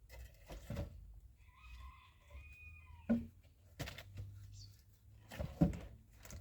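A few scattered knocks and thuds, the loudest about three and five and a half seconds in, with a held animal call from about one and a half seconds in that drops in pitch as it ends.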